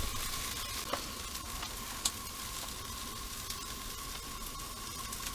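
Breakfast food frying on a propane stove: a steady sizzling hiss with a few faint crackles and a faint steady tone underneath.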